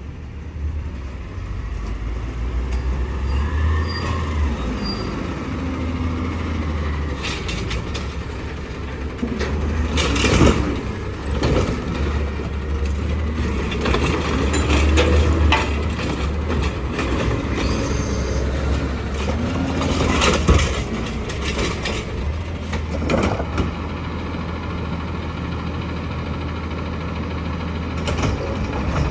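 Garbage truck's diesel engine running with a steady low hum, its pitch rising and falling several times, with a number of sharp metallic clanks from about ten seconds in.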